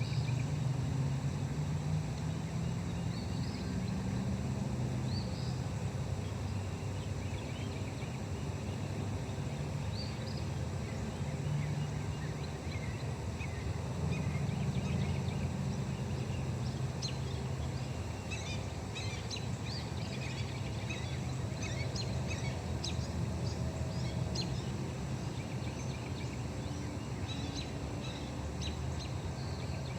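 Small birds chirping with short, high calls, scattered at first and much busier in the second half, over a steady low hum.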